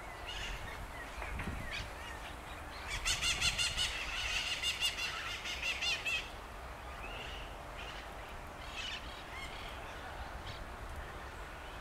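Birds chirping, with one bird giving a loud, rapid run of evenly repeated chirps from about three to six seconds in, over a steady faint low rumble.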